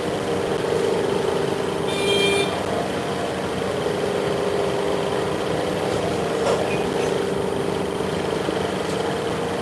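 Workshop machinery running steadily with a constant hum, and a short high-pitched metallic squeal about two seconds in.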